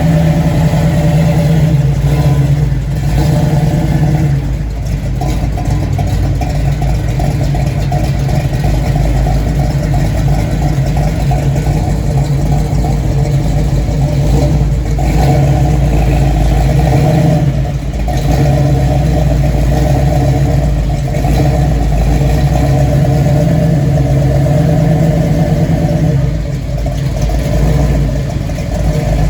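Classic car engine running loud through a performance exhaust at a steady idle, with a few brief dips in level along the way.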